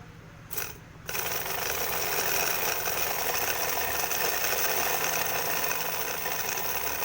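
A homemade diesel-engine sound maker: a small used DC motor spinning a wire that strikes cut tin-can strips, giving a fast, steady mechanical rattle meant to sound like a diesel truck engine. It blips briefly, then starts running about a second in, powered from a 9-volt battery through a PWM dimmer with no resistor.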